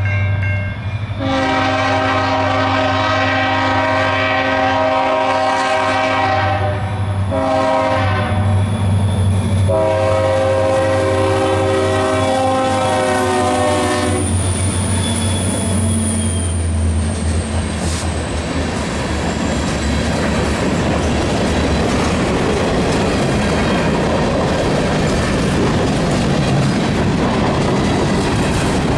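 EMD SD40-3 diesel freight locomotives sounding the horn for a grade crossing over the low drone of their engines. The tail of one blast is followed by a long blast, a short one, and a final long blast that ends as the lead unit reaches the crossing. The locomotives then pass and the freight cars roll by with a steady rumble and clatter of wheels on the rails.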